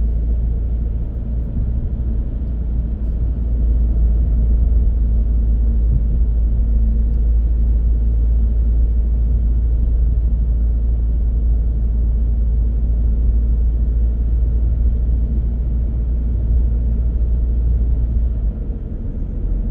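Car driving on the road: a steady low rumble of tyre and engine noise, easing slightly near the end.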